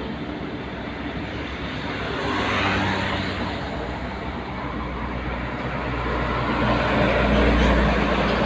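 Road traffic with a heavy truck's engine and tyres passing close by; its low rumble swells and is loudest near the end.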